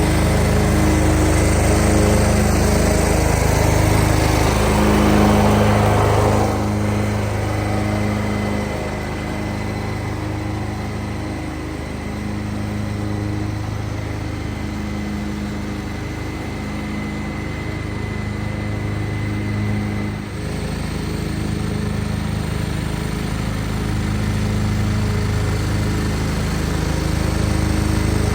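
John Deere 425 garden tractor's liquid-cooled Kawasaki V-twin engine running steadily. An extra rushing layer over the engine drops away about six and a half seconds in, and the engine gets a little louder again near the end.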